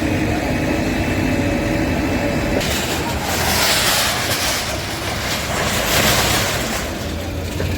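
A heavy engine, likely a demolition machine's, runs steadily. From about two and a half seconds in until near the end, a loud rough clattering noise rises over it.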